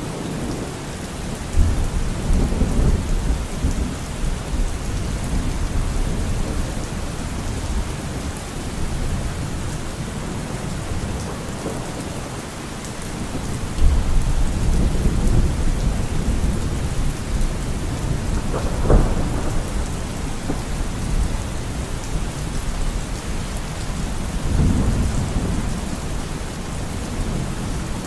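Steady rain in a thunderstorm, with low thunder rumbles swelling about two seconds in and again about halfway through, a sharper clap a few seconds later, and another rumble near the end.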